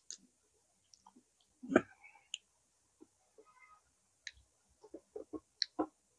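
Close-up eating sounds: irregular wet mouth clicks and smacks while chewing food, with a louder smack about two seconds in and a quick run of them near the end.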